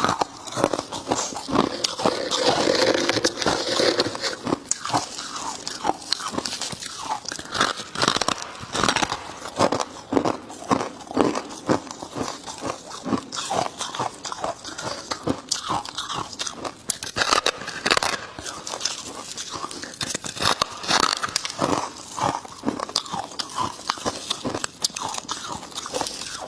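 A person biting and chewing dry chunks of freezer frost up close, a rapid, continuous run of crisp, squeaky crunches.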